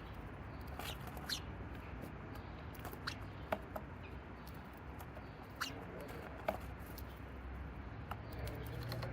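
Small birds chirping: about seven short, quick calls that drop in pitch, scattered irregularly over a steady low background hum.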